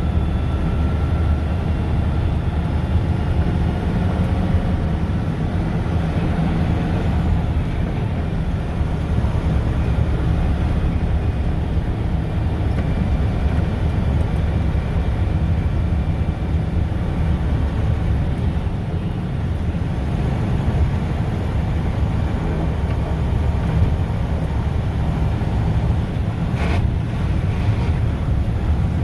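Mack plow truck's diesel engine running steadily as the truck drives along, a constant low rumble with road noise, and one brief knock near the end.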